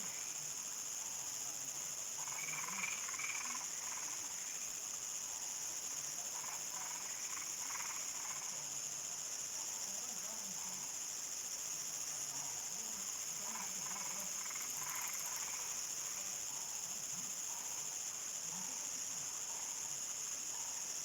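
Evening rural night chorus: crickets trilling in a steady high-pitched drone, with frogs calling on and off over it.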